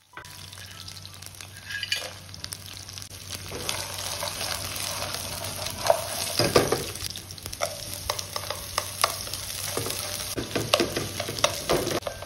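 Ginger, garlic, rock sugar and dried spices (chillies, star anise, cinnamon) sizzling steadily in hot oil in a nonstick wok, being stir-fried until fragrant, with chopsticks clicking against the pan. The sizzle grows louder about two seconds in.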